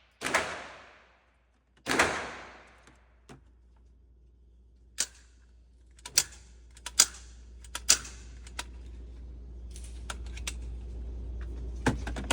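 .22 rimfire handgun firing Stinger high-velocity rounds: two loud shots with a long echoing tail, about a second and a half apart near the start. These are followed by a scattering of shorter, quieter sharp cracks over a steady low hum.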